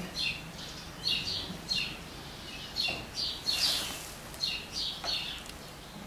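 Small birds chirping: a run of short, high chirps, roughly two a second, with a brief noisy burst about three and a half seconds in.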